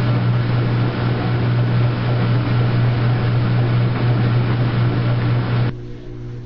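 Washing machine running: a loud, steady motor hum with a rushing noise. It cuts off abruptly near the end, leaving a quieter hum.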